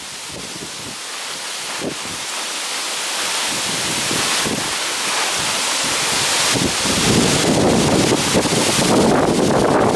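Strong gusty wind rushing through trees and rustling autumn leaves, building steadily in strength, with low buffeting of the wind on the microphone from about seven seconds in.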